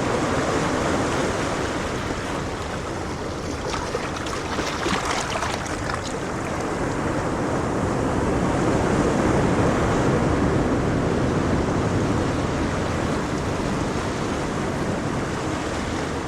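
Ocean waves washing onto a shore: a steady rushing hiss that slowly swells and eases, with a brighter fizz of surf about four to six seconds in.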